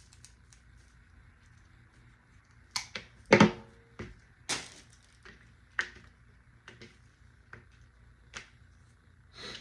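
Artificial flocked grass stems being trimmed and handled: about ten irregular sharp clicks and crackles, the loudest a little over three seconds in.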